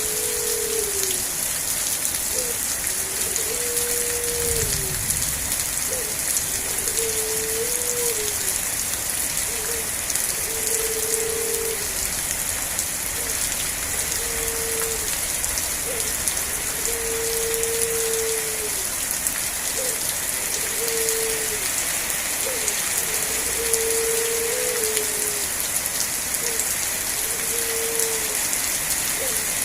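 Steady rain falling, a continuous hiss. A low one-note call, each about a second long, repeats about every two seconds through it.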